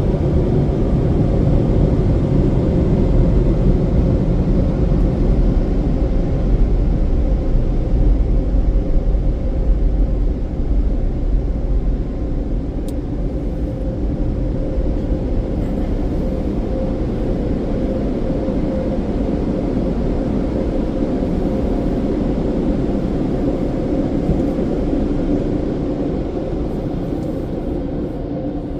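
Car wash's Premier off-board blower dryer running: a loud, steady rush of air with a low rumble and a steady hum, slowly getting quieter through the second half.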